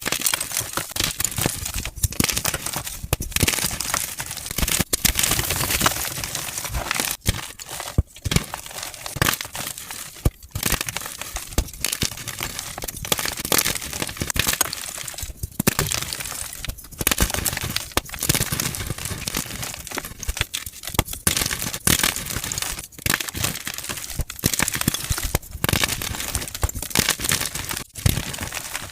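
Blocks of gym chalk (magnesium carbonate) being crushed and crumbled, a dense run of crunching and crackling with many small snaps, broken by short pauses every few seconds.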